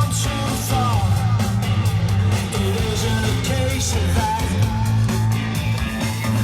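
Rock music with electric guitar, a steady bass line and singing.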